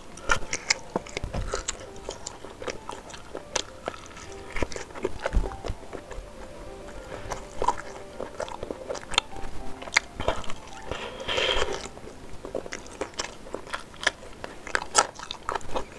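Close-up mouth sounds of biting and chewing sempol, fried chicken-and-tapioca skewers in spicy sauce: many short wet clicks and smacks.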